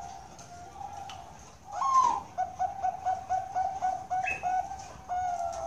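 Zebra dove (perkutut) cooing: a louder opening note, then a rapid run of short coos at about five a second, ending in a longer drawn-out note near the end.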